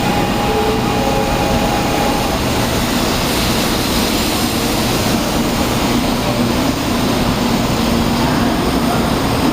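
Recorded running sound of a 0 Series Shinkansen train, played by a Shinkansen-shaped coin bank: a steady rushing rumble at speed, with a few faint tones fading out about two seconds in.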